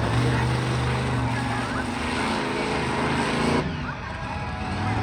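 Monster truck engine running loud and revving, easing off about three and a half seconds in, then building again.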